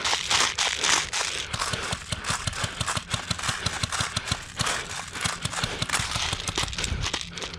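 Footsteps of a player on the move, with gear rattling and brushing, many short knocks in an uneven rhythm.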